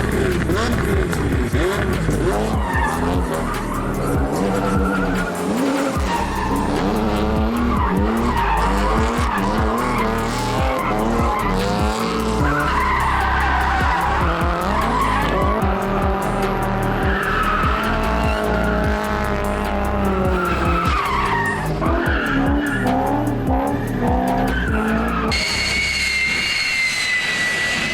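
A drifting car's engine revving up and down hard, with tyres squealing. About 25 seconds in, the sound changes abruptly to the steady high whine of a jet engine.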